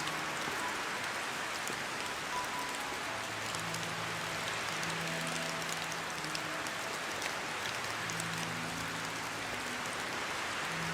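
Steady rain falling hard, an even hiss with individual drops ticking through it, and faint sustained low notes of soft music underneath.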